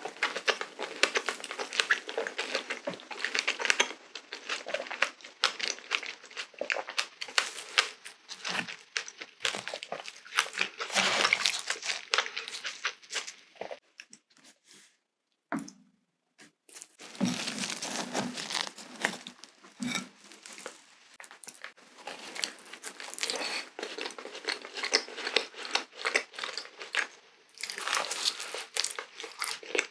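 Close-miked eating sounds: a strawberry, then a glazed ring donut, chewed with wet, crackly mouth noises. They stop for about three seconds near the middle, then come back as the donut is bitten and chewed.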